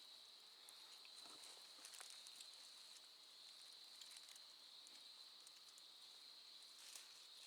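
Near silence, with a faint steady high-pitched insect chorus and a few faint ticks.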